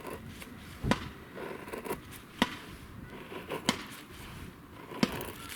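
Four sharp knocks, evenly spaced about a second and a half apart, with lighter clicks and scraping between them.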